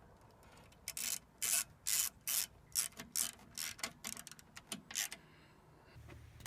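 A series of about ten quick rubbing or scraping strokes, roughly two to three a second, which stop about five seconds in.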